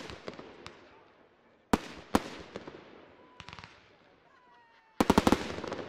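Fireworks shells bursting overhead: two sharp bangs about two seconds in, then a quick volley of bangs near the end, each trailing off.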